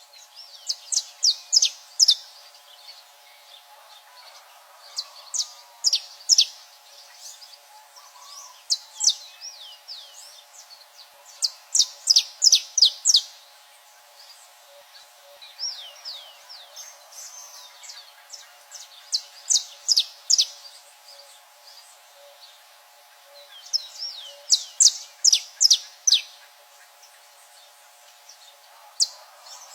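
Saffron finch and great kiskadee singing: bouts of quick, sharp, high chips and short whistled notes, each bout lasting one to two seconds and coming about every three to four seconds.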